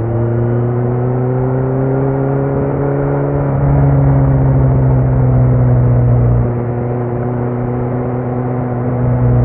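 Kawasaki Z900's inline-four engine through a Leo Vince muffler with no dB killer, running under way at steady revs. The pitch rises slowly over the first few seconds, the engine gets louder under more throttle from about four seconds in, and it eases off again after about six seconds.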